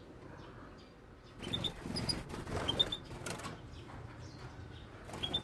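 Small aviary finches giving short, high chirps and flapping their wings, mixed with rustling. These sounds start about a second and a half in.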